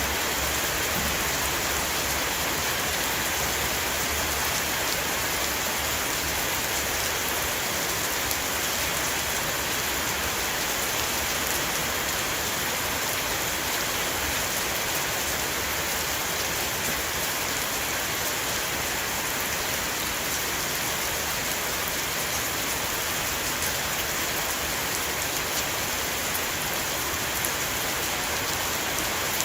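Rain shower (mưa rào) falling steadily on a house roof, a dense, even patter of drops that does not let up.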